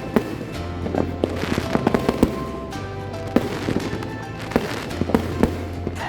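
Firecrackers and fireworks going off in many sharp, irregular bangs, a few a second, over background music.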